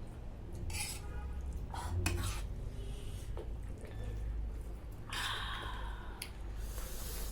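Spicy ramen noodles being eaten from a bowl: utensils clinking and scraping against the bowl, with a few short noisy slurps.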